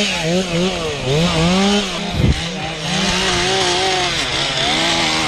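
Two-stroke chainsaw running at high revs, its pitch dipping and recovering several times as the throttle and load change. A brief low thump comes a little over two seconds in.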